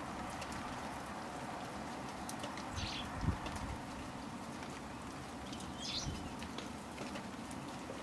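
Steady light rain pattering, with two short, high bird calls, one about three seconds in and one about six seconds in, and a dull low thump just after the first call.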